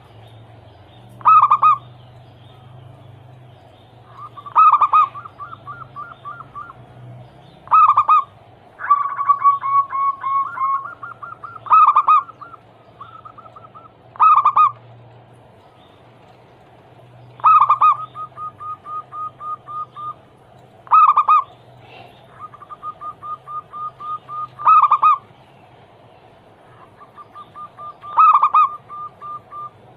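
Zebra dove (perkutut) song: loud cooing phrases repeated about every three to four seconds, linked by runs of quick, short staccato notes.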